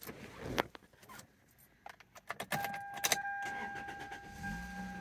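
Key jingling and clicking in the ignition of a 2003 Toyota Celica GT-S. About halfway through a steady electronic tone comes on. Near the end the 1.8-litre four-cylinder engine starts and settles into a low, even idle.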